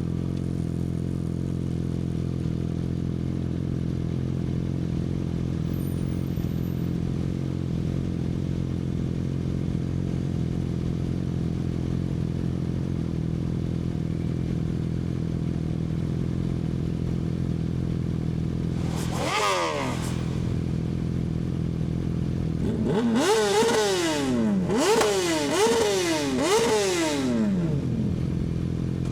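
Yamaha R6 four-cylinder sport bike through an Akrapovic exhaust, its engine running steadily. About two-thirds of the way in there is one rev that falls away, and near the end a quick string of four or five sharp throttle revs, each climbing high and dropping back.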